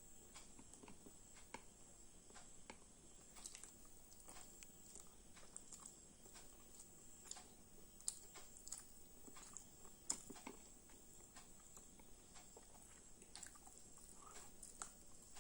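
A person chewing and biting food, heard as faint, irregular wet clicks and smacks.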